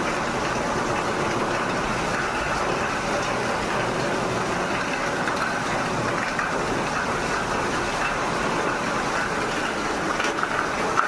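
Air conditioner running with a steady mechanical noise.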